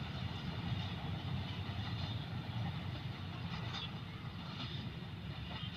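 Departing passenger train rolling away along the track: a steady low rumble that slowly fades.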